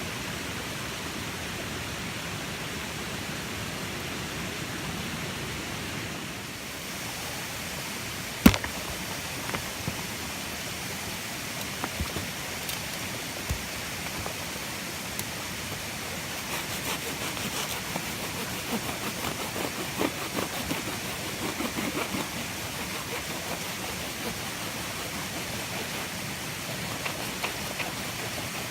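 Steady rushing outdoor noise with one sharp snap about a third of the way in and scattered small clicks and cracks through the second half.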